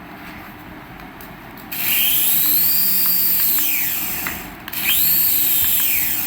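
Small electric motor of a remote-control toy whining, its pitch rising and then falling away, twice: first for about two and a half seconds, then again more briefly near the end.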